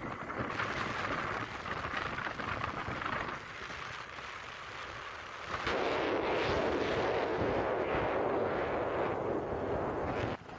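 Wind rumbling and buffeting over the microphone on a moving motorbike, mixed with the bike's running noise; it gets louder about six seconds in.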